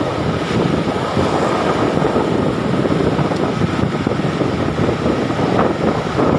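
Truck driving along, with steady engine and road noise and wind buffeting the microphone.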